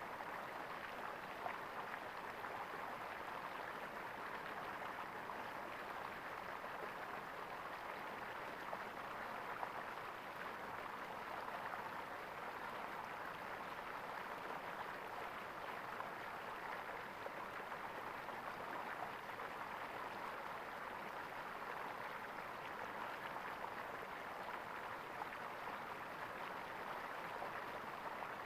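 Small stream of water gurgling steadily, a continuous even rush with little irregular splashes.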